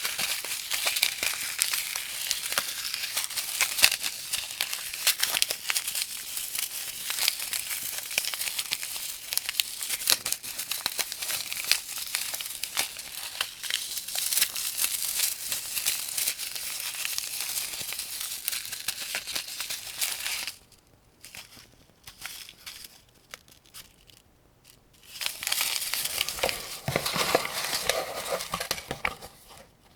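Dense, rapid clicking and rattling of cartridges and metal parts as rounds are loaded into a 75-round AK-47 drum magazine. The sound stops about two-thirds of the way through, leaving a few scattered clicks, then starts again and stops near the end.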